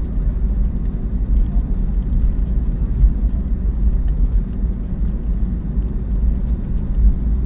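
Steady low rumble of an Airbus A321neo heard from inside the passenger cabin while the aircraft taxis, with a few faint ticks on top.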